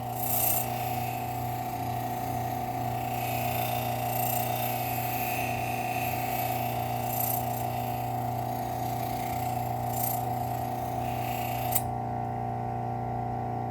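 Bench grinder running steadily with a Scotch-Brite wheel, a knife blade held against it with a rubbing scrape as rust and scratches are buffed off. Near the end the blade comes off the wheel and only the grinder's steady hum remains.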